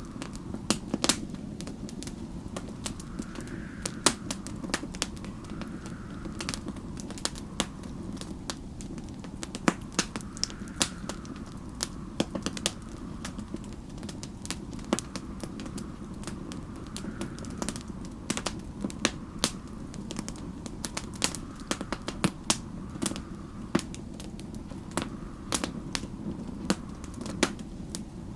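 Wood fire crackling, with irregular sharp pops and snaps over a steady low rush, while snowstorm wind faintly howls in slow swells every couple of seconds.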